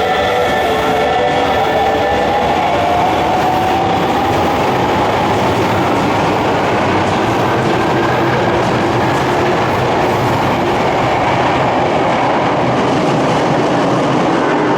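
Sakaisuji Line subway train pulling out of an underground platform: a motor whine rising in pitch over the first few seconds, then a steady rumble and clatter of the cars rolling past.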